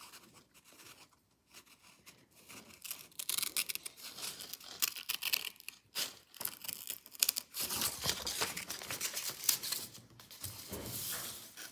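Scissors cutting through paper: a run of short, uneven snips with paper rustling, coming closer together and louder after about eight seconds.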